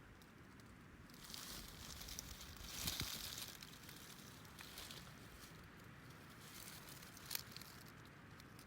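Faint rustling and crinkling over a low steady hiss, swelling a second or so in, with two sharp clicks, the louder one about three seconds in and another near the end.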